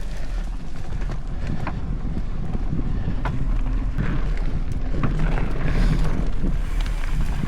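Wind buffeting the microphone over a mountain bike rolling along a dirt trail, with scattered light clicks and rattles.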